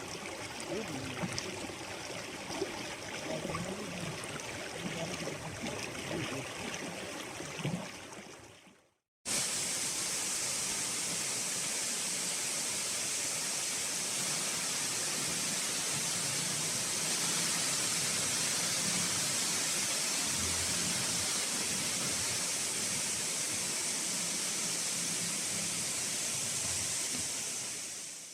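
Steady rush of fast-flowing water. It fades out about eight seconds in, then a louder, even rush of water fills the rest and fades out near the end.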